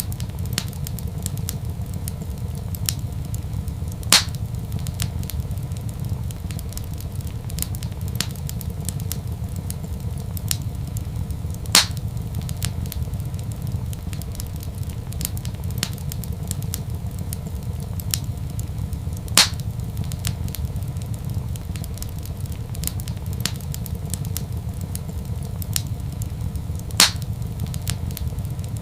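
Wood fire crackling in a fireplace: a dense run of small crackles over a steady low rumble. Four louder pops come at even intervals, about every seven and a half seconds.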